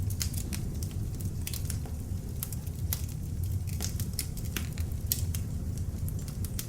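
Beech-wood log fire in an open fireplace crackling, with many sharp irregular pops and snaps over a steady low rumble of the flames.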